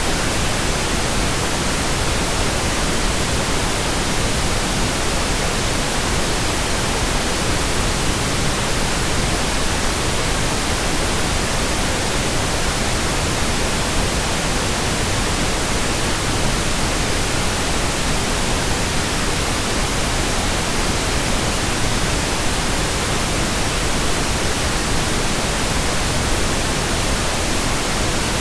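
Steady, continuous synthetic white noise, an even hiss spread evenly across all pitches with no changes or events.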